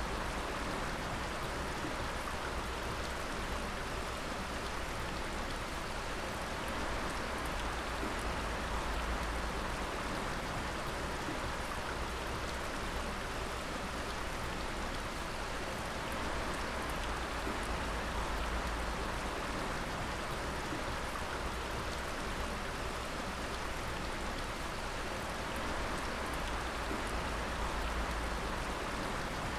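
Water dripping and splashing steadily, many drops falling together in a constant rain-like patter, with a low rumble underneath.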